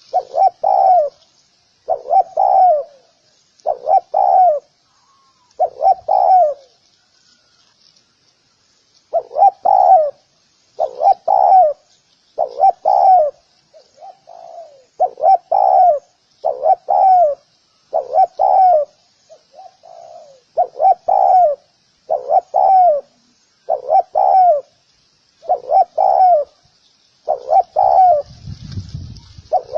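Spotted dove cooing over and over in short two- or three-note phrases, about one phrase every second or two, with a pause of a couple of seconds partway through. A faint steady high chirping hiss sits underneath, and a low rumble comes in near the end.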